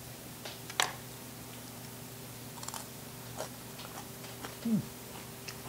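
A person chewing a bite of crispy pork belly, with scattered short crunches and clicks, the sharpest about a second in, over a steady low hum.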